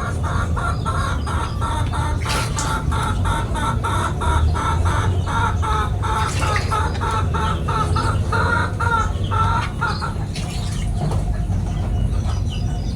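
A chicken clucking in a fast, even run of short notes, about four a second, which stops about ten seconds in. Faint high chirps of small birds near the end, over a steady low rumble.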